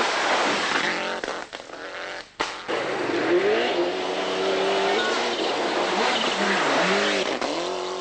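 Turbocharged World Rally Car engine driven hard on a gravel stage. The revs climb and drop repeatedly through gear changes as the car comes through, over a rush of gravel and tyre noise. About two and a half seconds in, the sound briefly dips, with a sharp click.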